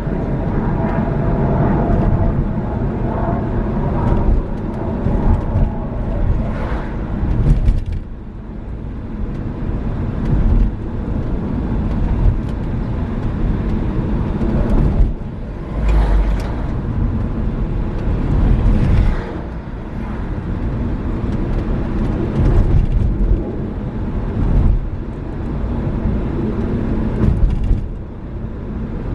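Renault Megane III driving along a road: engine and tyre noise, rising and falling in level, with a few short knocks over the rumble.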